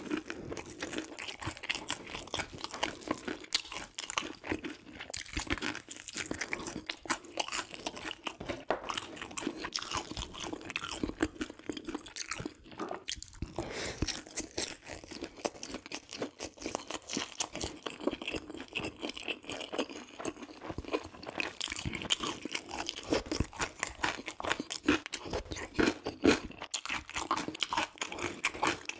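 Close-miked crunching and chewing of crispy fried food, a steady stream of crackling bites.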